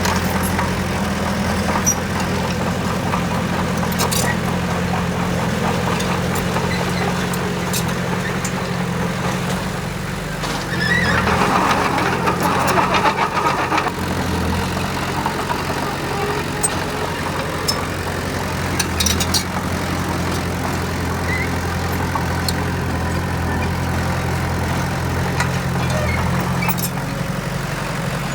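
Heavy diesel engine of earthmoving machinery running steadily, with a louder, rougher stretch of about three seconds roughly eleven seconds in.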